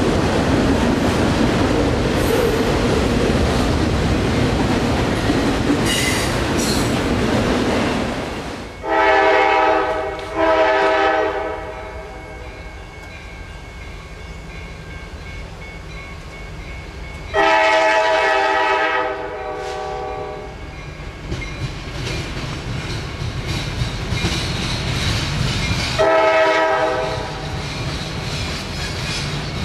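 A freight train of autorack cars passing close by, a loud steady rumble with wheel clatter. After a drop, a locomotive's multi-chime air horn sounds as it approaches: two blasts of about a second each, a longer blast, then two more, over the quieter rumble of the train.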